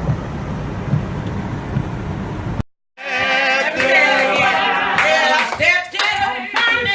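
Steady storm noise of wind and rain on the microphone for about two and a half seconds, then a sudden cut, a brief silence, and a gospel song sung by voices.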